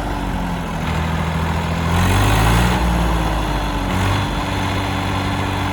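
Diesel tractor engine running steadily, its revs shifting slightly up and down.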